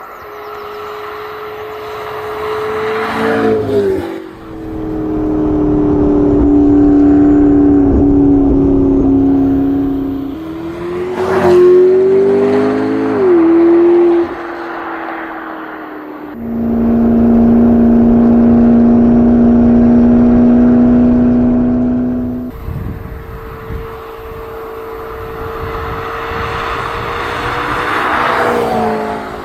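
2019 Audi RS 4 Avant's twin-turbo V6 engine running hard under load. Its pitch holds steady for long stretches, then climbs and drops sharply at gear changes about four, thirteen and twenty-nine seconds in.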